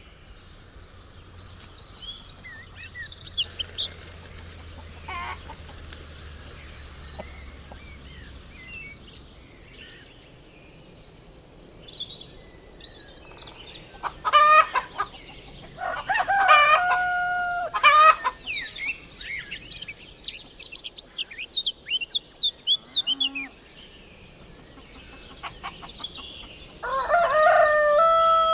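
A rooster crowing, a long loud call about halfway through and another near the end, with chickens clucking and small birds chirping throughout.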